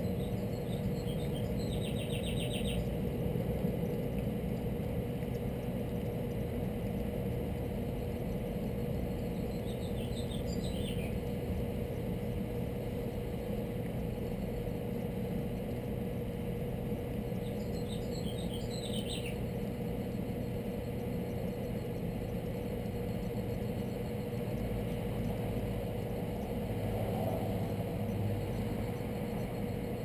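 Small bird chirping: three short bursts of rapid high notes, roughly eight seconds apart, over a steady low hum.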